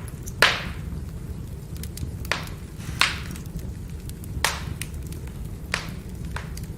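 Firewood burning: about six sharp, irregular crackles and pops, the loudest about half a second in, over a steady low rumble of the fire.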